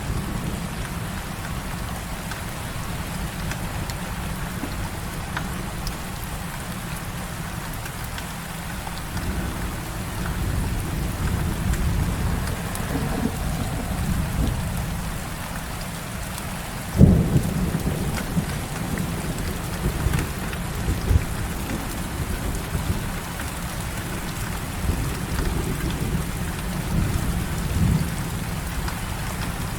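Heavy rain falling steadily, with low thunder rumbling throughout. A little past halfway a sharp, loud thunderclap breaks in and rolls on into further rumbles.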